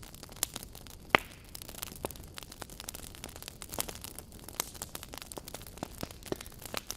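Wood campfire crackling: a low steady hiss with irregular sharp pops and snaps, the loudest about a second in.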